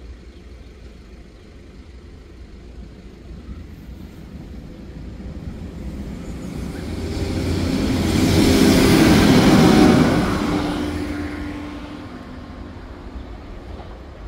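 Diesel multiple-unit passenger train passing the level crossing: its noise builds over several seconds, peaks about eight to ten seconds in with a low engine drone under the wheel and rail noise, then fades away.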